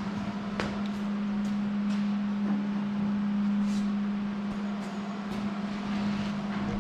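Steady machine hum at one pitch, with a few scattered knocks and clanks as metal pieces are handled.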